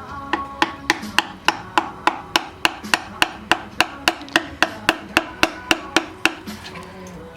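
Rapid, evenly spaced hammer taps on metal, about three or four a second for some six seconds, as a piston is fitted into a Subaru EJ257 boxer engine block. Faint music plays underneath.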